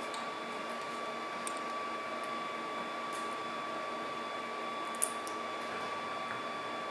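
A steady machine whine, one constant tone over a hiss, with a couple of faint clicks.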